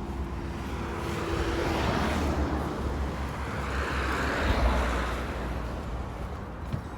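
Road traffic: cars passing by, their tyre and engine noise swelling and fading about two seconds in and again about four and a half seconds in, over a steady low rumble.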